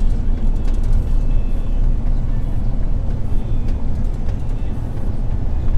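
MAN truck driving, a steady low rumble of engine and road noise, with faint clicks now and then.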